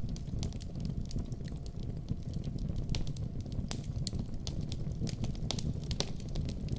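Wood fire burning in a fireplace: a steady low rumble of flame with irregular sharp crackles and pops throughout, a few louder pops standing out.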